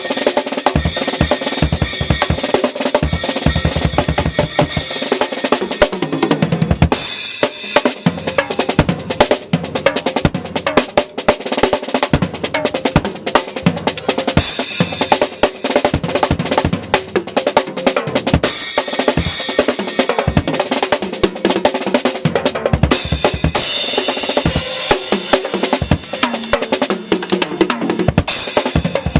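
Full acoustic drum kit played outdoors: fast, busy bass drum and snare patterns, rolls and fills, under steady cymbal wash.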